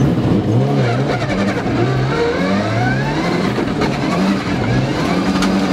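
Turbocharged 2.0-litre flat-four engine of a Prodrive-built Subaru rally car, heard from inside the cabin, revving hard on snow, its pitch climbing and dropping back several times as it shifts gears.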